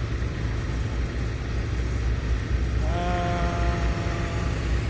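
Steady low rumble like a running engine. About three seconds in, a single held pitched tone lasts about a second and a half.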